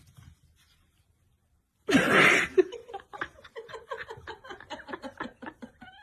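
Laughter, starting suddenly with a loud outburst about two seconds in and running on in rapid bursts.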